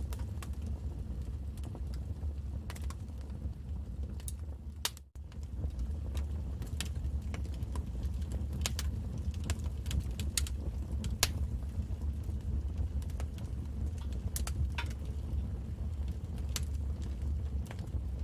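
Wood fire in a fireplace crackling, with irregular sharp pops and snaps over a steady low rumble. The sound drops out briefly about five seconds in.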